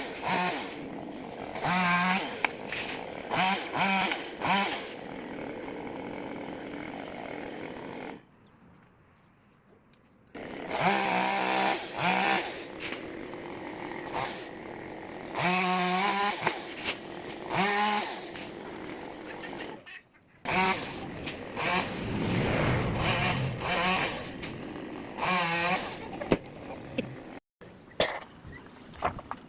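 Chainsaw running and revving up in repeated bursts between lower-speed running, while cutting tree wood. The sound drops out abruptly a few times.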